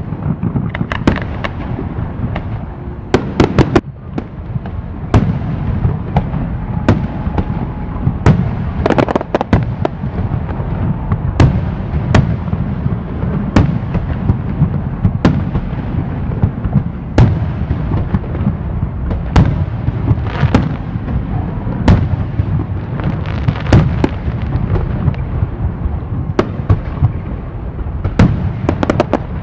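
Fireworks display: aerial shells bursting in a rapid series of sharp bangs, one every second or two, over a continuous rumble and crackle of further bursts.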